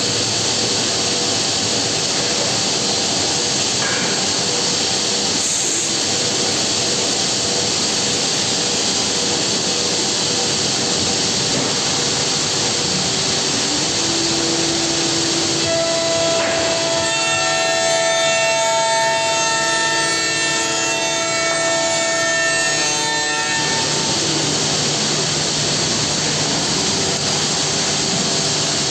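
Homag five-axis CNC machining centre cutting wood: a steady, loud run of cutter and machine noise, with several steady whining tones that come in about halfway through and stop about three-quarters of the way in.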